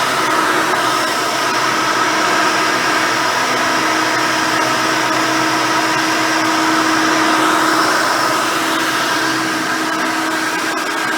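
Custom Hoover Elite 600 upright vacuum with a single-row brush roll, running steadily while vacuuming carpet: a constant motor whine over a rushing hiss.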